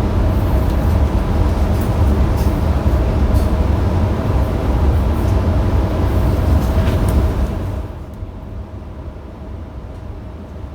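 Passenger train in motion heard from inside the carriage: a steady low rumble of wheels on the track with faint humming tones and occasional clicks, dropping sharply in loudness and brightness about eight seconds in.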